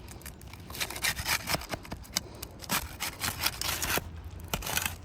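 Asphalt roofing shingle's sealant strip being broken loose, with uneven scraping and rubbing strokes as a tool is worked along under the shingle tab.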